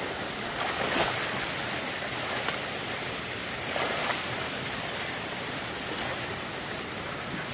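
Creek water flowing steadily with a continuous rushing hiss, swelling briefly louder about a second in and again around four seconds in.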